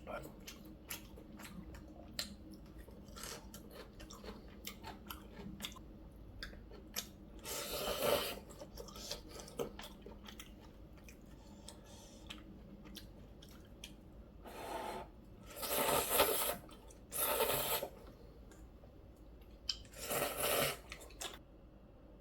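Close-miked eating of kalguksu noodle soup: steady chewing with many small wet clicks, broken by about five louder slurps of noodles or broth, each about a second long.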